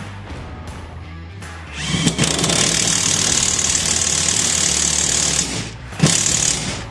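Background music with a steady beat. Over it, a tool runs with a loud hiss for about four seconds, stops, then runs again briefly near the end.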